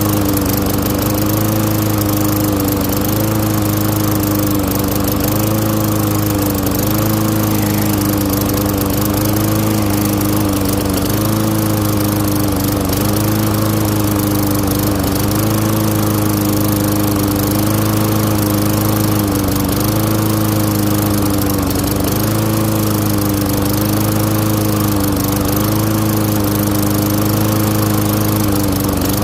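Craftsman lawn mower's Tecumseh single-cylinder engine running steadily at speed, its pitch dipping slightly about every second and a half.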